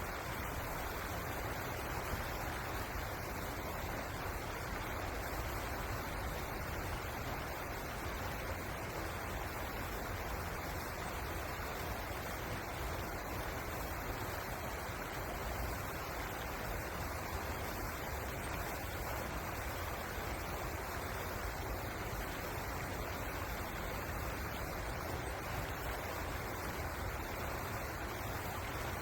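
Steady rush of flowing river water, an even noise with a low rumble that does not change.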